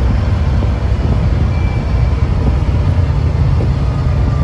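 Yamaha Wolverine side-by-side's engine running steadily at low speed, heard from on board as a steady low rumble.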